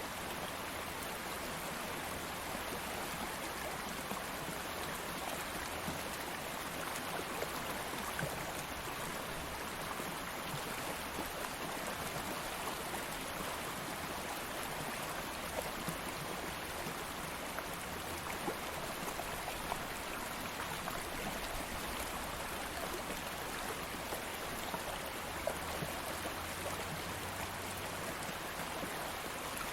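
Stream of water flowing steadily over stones, a constant rushing wash with small splashes and trickles flecked through it.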